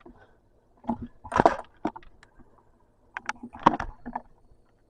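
A few short knocks, clicks and rustles, the loudest about a second and a half in and again near the middle, with near quiet between.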